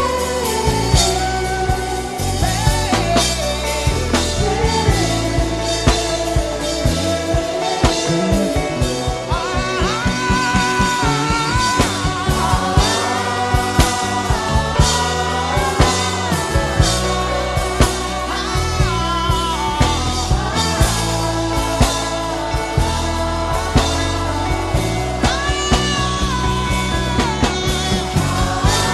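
Gospel worship music: a man humming a wordless, gliding melody over band accompaniment with a steady drum beat and bass.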